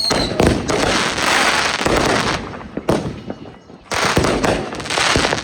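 Consumer fireworks going off: repeated bangs with crackling, a brief lull about three and a half seconds in, then more sharp reports.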